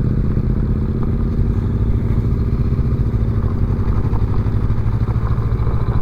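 Honda Rebel 500 motorcycle's parallel-twin engine running steadily at low, even revs while the bike is ridden slowly over gravel.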